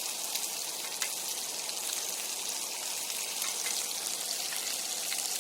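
Steak, onion and garlic sizzling in a pan over a campfire: a steady hiss dotted with fine crackles as the meat browns.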